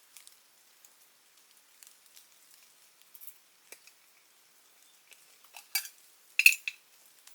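Small hard objects being handled: scattered light clicks and ticks, then a few louder sharp clinks about six seconds in, one with a brief ringing tone.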